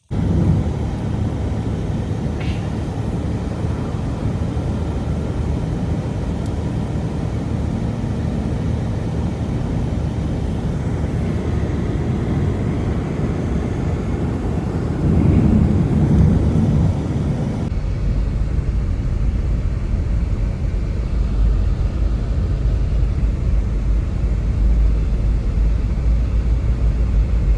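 Strong blizzard wind as a steady, loud rumbling roar buffeting the microphone, swelling briefly about two-thirds of the way through; about 18 s in it changes abruptly to a deeper, more muffled rumble.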